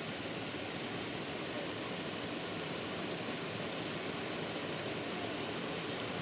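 Steady rushing of water over a small creek waterfall.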